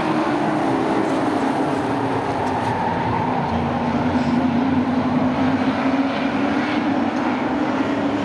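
A field of sport-class race trucks running laps together, many engines at once in a steady, continuous drone whose pitch wavers slightly up and down.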